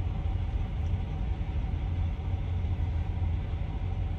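Steady low rumble of a vehicle running, engine and road noise with no change through the pause.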